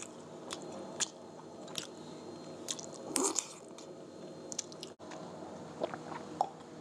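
A person biting into and chewing food close to the microphone, with small wet clicks and crunches and one louder bite about three seconds in.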